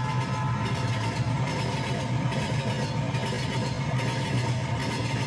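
A train running: a steady, low engine rumble with a constant hum.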